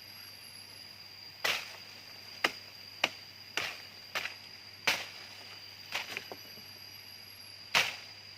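Sharp chopping strikes, about eight at irregular intervals, over a steady high-pitched insect drone.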